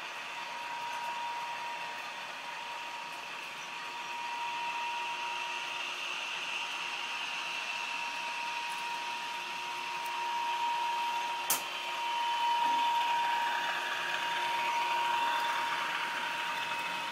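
OO gauge model diesel locomotive's DCC sound decoder playing diesel engine running sound through its small onboard speaker, with a steady high tone and the level swelling and easing a little. One sharp click about eleven and a half seconds in.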